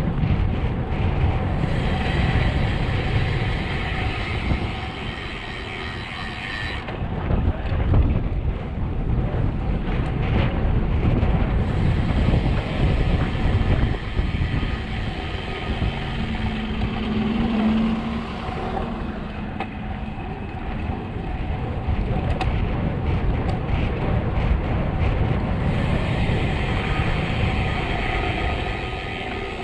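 Road bike descending at speed: wind rushing over the microphone with tyre noise on the road, and stretches of higher hiss that come and go three times.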